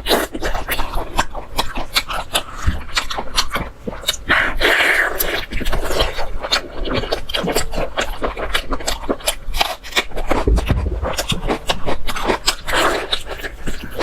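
Close-miked eating sounds: chewing and lip-smacking, a rapid run of wet clicks.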